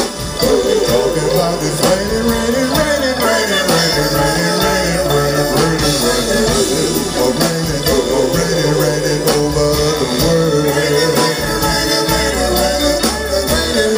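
Live soul band playing a slow ballad, with bass, guitar and tambourine under sustained wordless singing.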